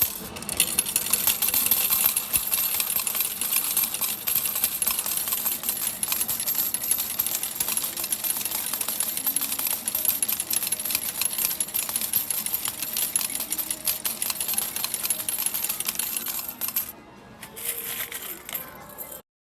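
Metal game medals clattering in a dense, continuous stream in an arcade medal-pusher machine, with machine or background music under it. The clatter falls away about seventeen seconds in and the sound cuts off just before the end.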